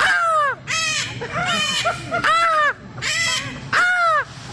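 Parrot squawking over and over: a run of about five harsh, loud calls, each falling in pitch, coming roughly once a second.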